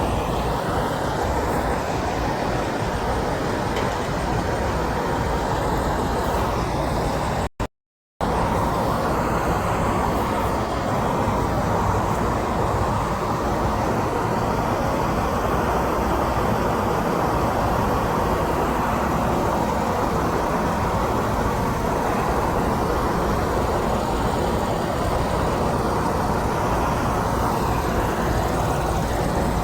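Steady road traffic noise from passing vehicles, with no horn sounding. It is broken by a brief silence about eight seconds in.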